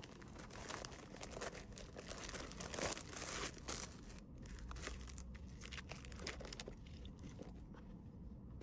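Plastic packaging crinkling and rustling as small items are handled and packed, with scattered soft clicks and a busier stretch of rustling about three seconds in.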